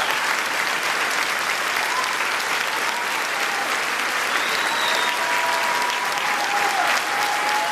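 A large audience applauding steadily and without pause, a dense crackle of many hands clapping in a big auditorium.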